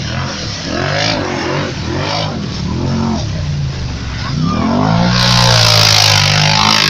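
A motor vehicle's engine revving up and down in short pulses about once a second, then pulling away harder about five seconds in, with a loud rushing hiss joining it.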